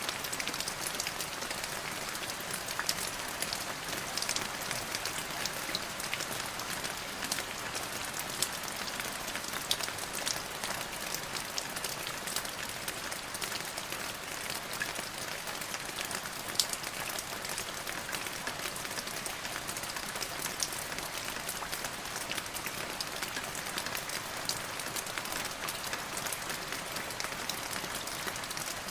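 Steady rain falling, a continuous hiss dotted with many small sharp drop impacts.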